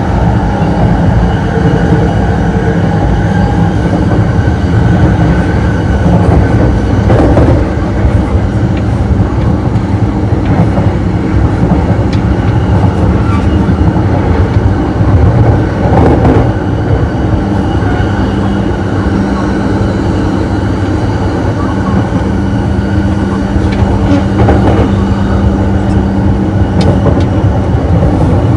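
E233 series electric commuter train running at speed, heard from inside the gangway between two cars: a loud, steady rumble of wheels on rail with a low hum and a couple of brief knocks.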